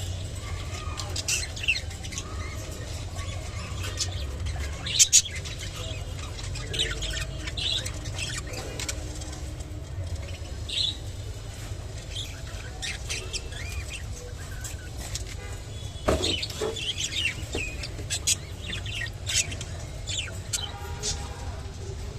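Budgerigars chirping and squawking in short, scattered calls, over a steady low hum.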